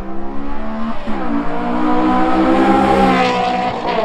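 A small racing go-kart's engine accelerating hard on a sprint run. Its pitch climbs, drops sharply at a gear change about a second in, then climbs again and drops once more near the end.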